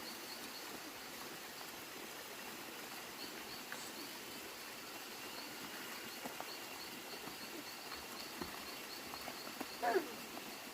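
Outdoor rural ambience: an insect's high chirps repeating at an even pace and a faint steady high tone over a background hiss, with a short pitched animal call near the end.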